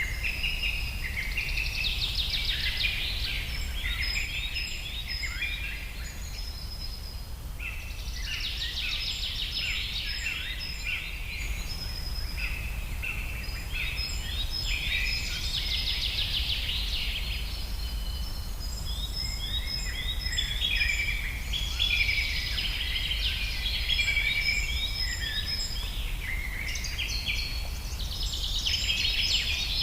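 Several songbirds singing at once in a dense chorus of quick chirps and trills, over a steady low rumble.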